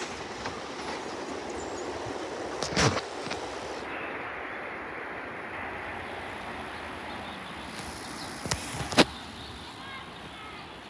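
Commuter train running past the platform as it departs: a steady rushing noise, with two sharp knocks about three and nine seconds in.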